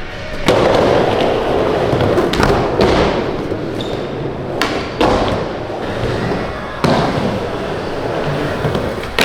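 Skateboard wheels rolling on the park surface, with several sharp board thuds as tricks land or the board slaps down.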